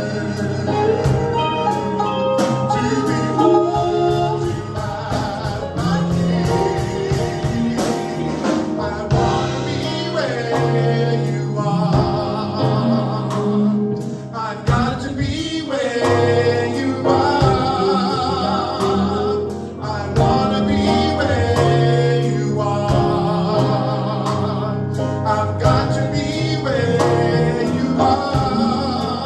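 Live gospel praise and worship music: a band with singers performing a song, with a steady beat.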